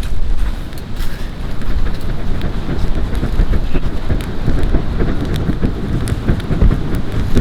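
Wind buffeting the microphone with an uneven low rumble, over the scattered sharp crackles of a wood campfire.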